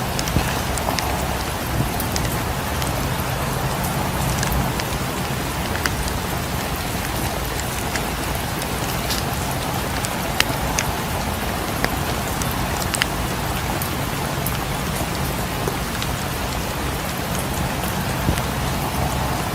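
Steady rain falling, mixed with the scattered sharp pops and crackles of a wood fire in a fireplace.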